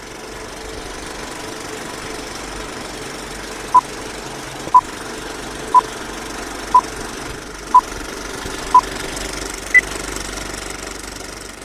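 Six short electronic beeps at one pitch, one second apart, then a single higher beep: a countdown ending in a start signal, over a steady background rumble.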